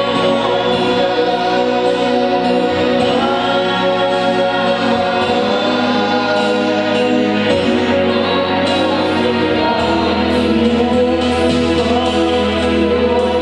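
Gospel worship music: a choir singing over a steady instrumental accompaniment with sustained bass notes.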